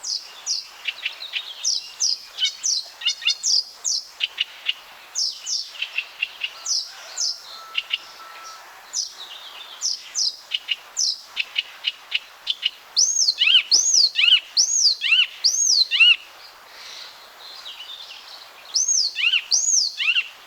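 Icterine warbler singing: a fast, varied run of chirps, whistles and harsh notes, then a loud arched whistled note repeated five times in a row about two-thirds of the way through, and twice more near the end.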